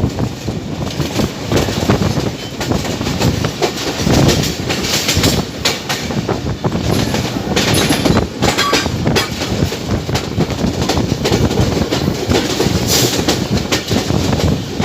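Diesel-hauled passenger train (GEU20 locomotive) running at speed: a steady loud rumble with wheels clattering over rail joints.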